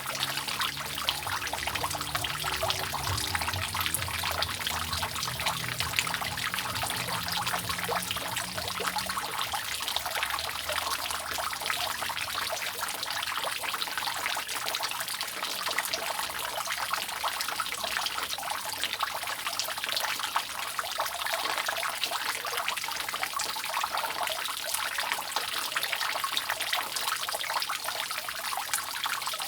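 Water dripping steadily off a roof: a dense, continuous patter of drops over a trickling splash.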